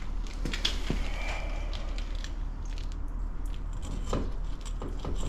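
Scattered light clicks, knocks and scrapes of parts being handled, over a steady low hum.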